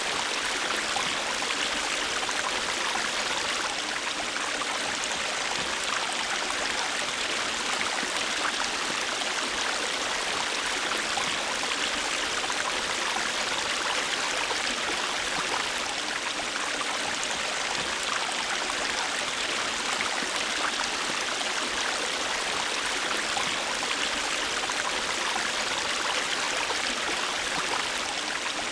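River water flowing over rocks, a steady rushing with fine splashing and trickling.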